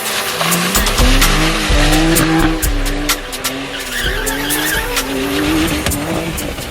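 BMW E46 drifting with a welded differential: the engine revs rise and fall repeatedly while the rear tyres squeal and skid.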